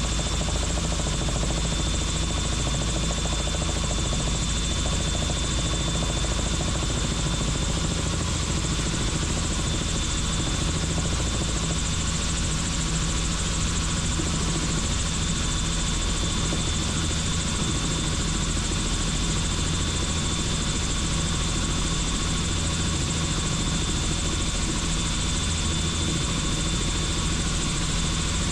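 Helicopter in cruising flight heard from on board: steady rotor and engine noise with a constant high whine.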